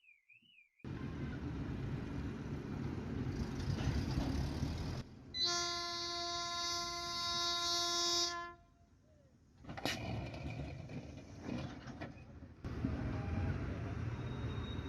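Steady road and engine noise of a moving vehicle, with a single-pitched vehicle horn held for about three seconds in the middle; the sound breaks off abruptly several times.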